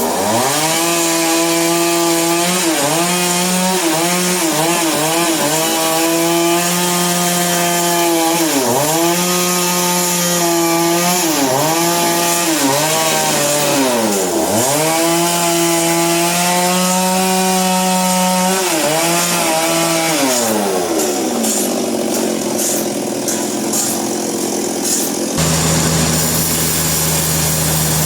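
Engine-driven saw cutting timber: its pitch dips again and again as the blade bites into the wood and it labours under load, then recovers. It winds down about twenty seconds in, and a steady low engine hum takes over near the end.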